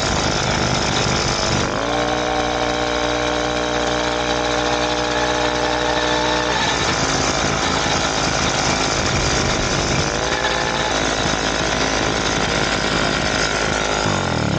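Two-stroke motorized-bicycle engine running hard under a rider, with a rough, buzzy note. Its pitch dips and climbs back about a second and a half in, holds steady, drops off about six seconds in, and rises again near ten seconds.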